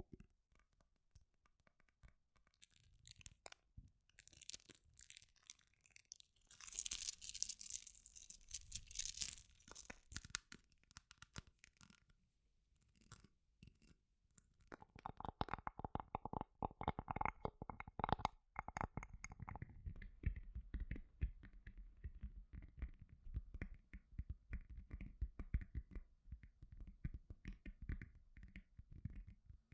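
Close-miked ASMR trigger sounds made by hand: a bright scratching, rustling stretch, then many rapid taps and rubs that grow denser and lower in the second half.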